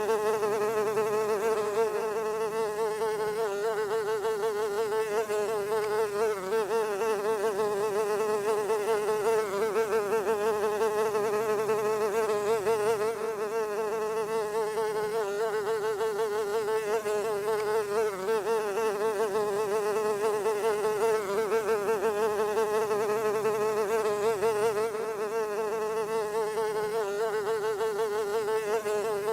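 A fly buzzing steadily without a break, its pitch wavering slightly.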